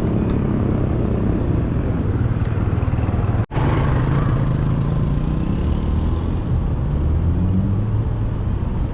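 Steady low rumble of city street traffic around a moving rider. The sound cuts out completely for an instant about three and a half seconds in.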